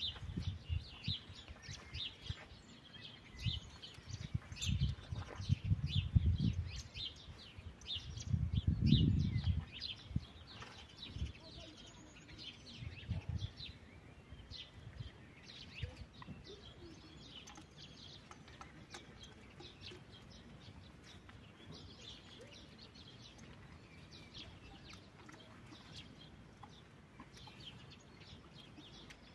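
Small birds chirping and twittering throughout. Irregular low rumbles in the first half are loudest about nine seconds in, then die away.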